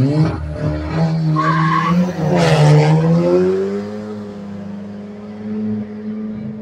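Two drag-racing street cars launching off the start line and accelerating hard down the strip. The engines rev sharply up at the launch, then change pitch through the gears. A loud rushing noise comes about two to three seconds in, and the sound fades off as the cars pull away.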